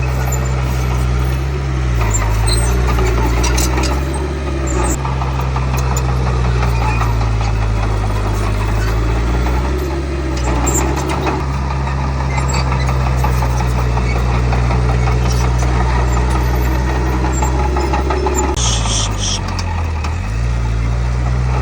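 Diesel engine of a Komatsu D31P crawler bulldozer running steadily, its note sagging briefly twice as it comes under load, with rattling and clicking over it and a short high squeal near the end.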